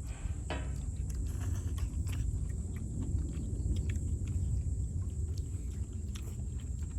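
People eating close to the microphone: chewing, with scattered short clicks of utensils. Under it runs a steady low rumble, the loudest thing heard.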